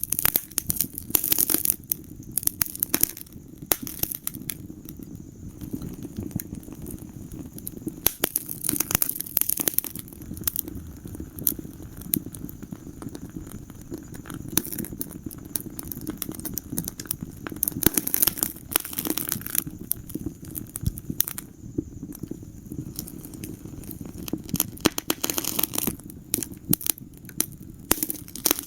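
Wood fire burning in a fireplace, crackling with irregular sharp pops and snaps over a steady low rumble of flames. The popping comes in several denser flurries spread through the stretch.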